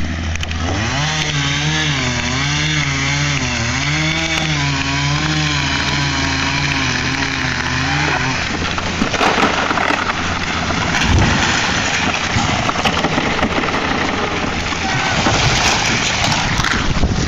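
Chainsaw engine running, its pitch wavering up and down as the throttle is worked, with a steady low hum beneath. About eight seconds in it gives way to a rougher, noisier sound, as of the chain cutting into wood.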